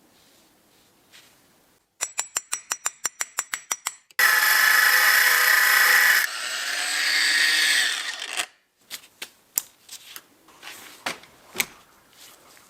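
A rapid, even run of clicks, about seven a second. Then a power tool's electric motor runs loud and steady for about two seconds, changes pitch and carries on for about two more before stopping. Scattered knocks and clinks of metal parts follow.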